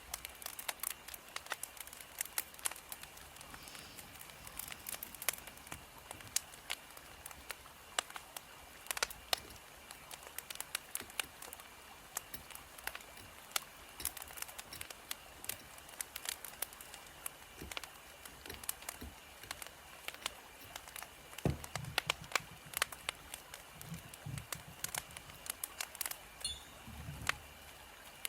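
Wood fire crackling: irregular sharp pops and snaps over a steady low hiss, with a few soft low thumps in the last third.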